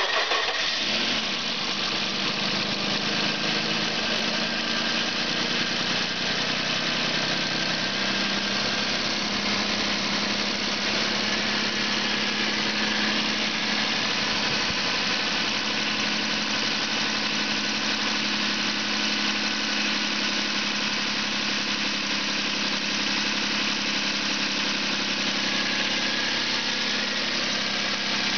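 A 2000 Suzuki Grand Vitara engine idling steadily at an even speed while it is test-run.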